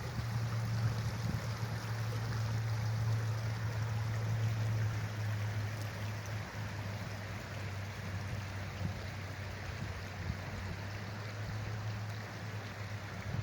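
Rushing water of a river or stream, a steady even rush, under a steady low hum.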